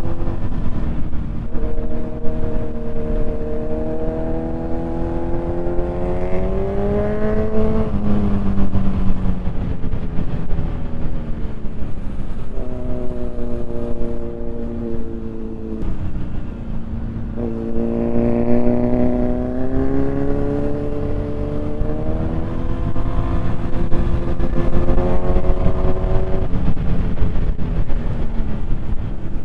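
Motorcycle engine running on the road. Its pitch climbs steadily three times as it pulls, each time dropping away or cutting off, over a constant low rumble of wind and road.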